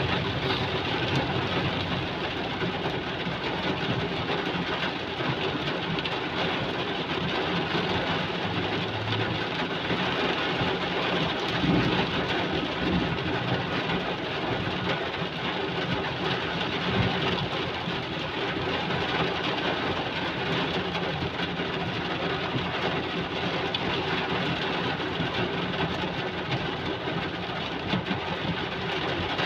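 Heavy rain falling steadily, an even hiss of water that hardly changes, with a couple of brief louder spots about twelve and seventeen seconds in.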